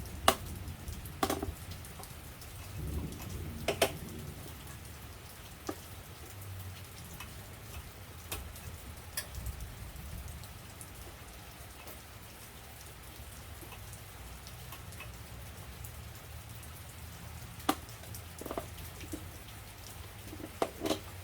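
Steady rain falling on a surface, with a few sharp clicks and knocks, loudest just after the start, around four seconds in, and near the end.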